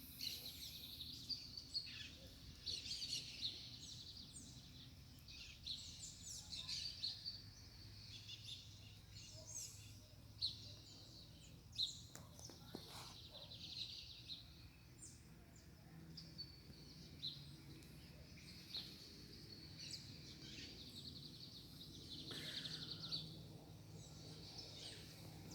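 Birds chirping and calling throughout, with a few sharp taps of raindrops dripping onto taro leaves, the loudest about ten and twelve seconds in.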